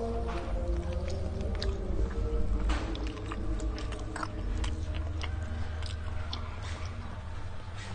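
Close-miked chewing and biting into crisp deep-fried potatoes, with many short, sharp crunchy crackles.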